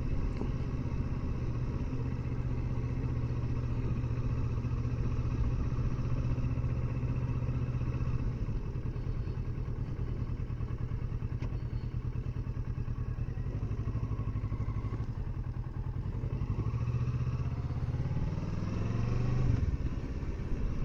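Kawasaki Versys 650 parallel-twin engine running steadily under way, then rising in pitch as it accelerates near the end before dropping off sharply, as with a gear change or closing the throttle.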